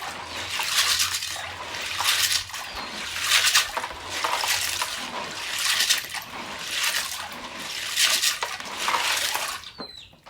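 Water sloshing and splashing in repeated swells, about one a second.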